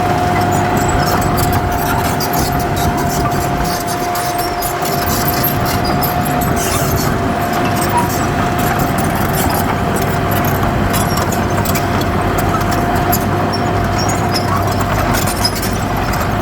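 Heavy earthmoving machine's diesel engine running steadily, with a steady high whine held at one pitch and scattered clicks and rattles over the top.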